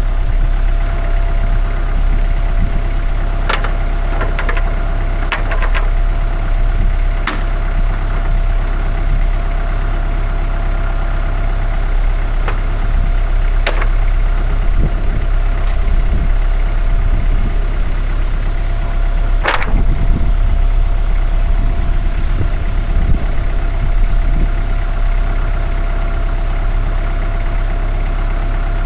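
An engine idling steadily, with several sharp knocks and clatters scattered through it, the loudest about two thirds of the way in.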